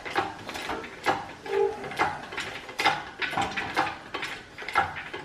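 A hand-worked ratchet clicking in quick, uneven strokes, about two to three clicks a second, while the engine is being lifted.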